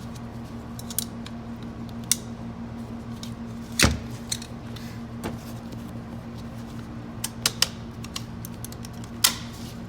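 Scattered metallic clicks and clinks of automatic-transmission parts being handled and seated in the case, the loudest about four seconds in and near the end, over a steady low hum.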